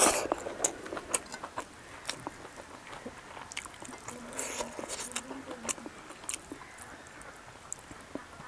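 Close-miked chewing of a handful of rice and vegetables eaten by hand, with many short wet mouth clicks and lip smacks.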